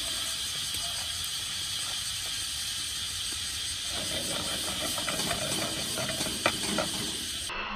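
Steady sizzling hiss of quail eggs and beef stir-frying in a pan over a wood fire. From about four seconds in the pan is worked, adding light clatter and a sharp knock.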